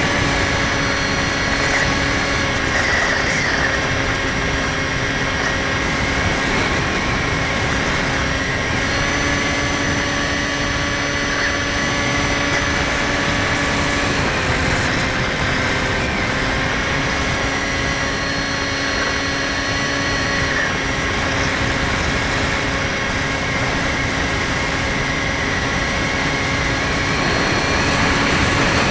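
A Skywalker 1680 RC plane's electric motor and propeller whining steadily over a rush of wind, the pitch stepping slightly up or down a few times as the throttle changes.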